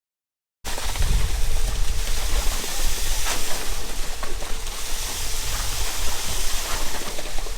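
A moment of dead silence at an edit cut, then a steady rushing noise with a low rumble and a faint steady hum, the running background noise of a concrete-pour construction site.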